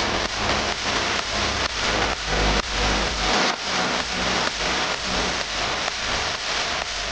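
Small single-cylinder motorcycle engine revved hard while the bike stands still, a loud continuous noisy racket with repeated surges.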